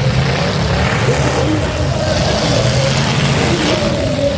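Demolition derby cars' engines running and revving together in the arena, a loud steady engine din with no single crash standing out.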